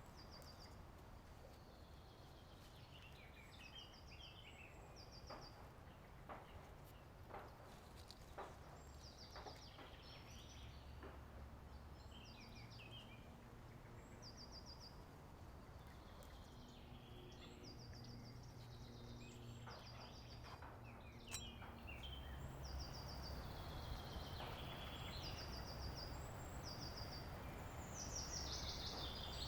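Birds singing, with short trilled phrases repeated again and again, over a faint low outdoor rumble and a few soft clicks.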